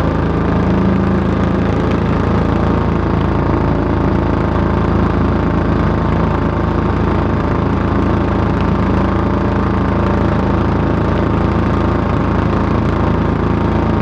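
Yamaha SR400 single-cylinder four-stroke motorcycle idling steadily through its exhaust.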